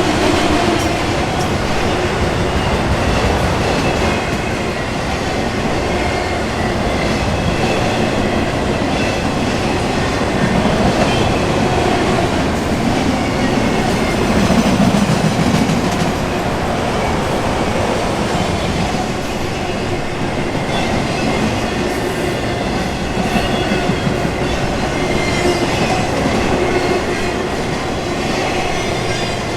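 Autorack freight cars rolling past: a steady rumble of steel wheels on rail, with clicking over rail joints and faint squealing tones from the wheels.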